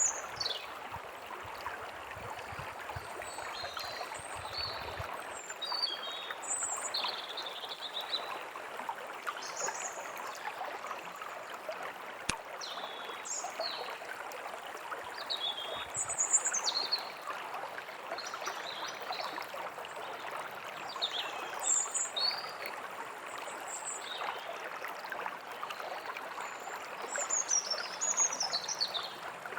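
A stream running steadily, with birds chirping and whistling in short high calls scattered over it and a falling trill near the end.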